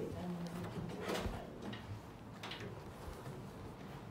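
Quiet room tone with a few faint rustles and light knocks, about a second and about two and a half seconds in, as a backpack is shifted on a table.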